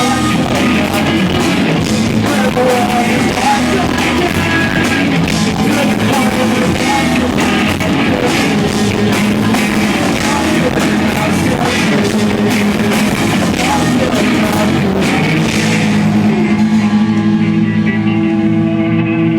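Live rock band playing loud with electric guitars, drums and singing, as heard from the audience. About three-quarters of the way through, the drums stop and a held chord rings out, the end of a song.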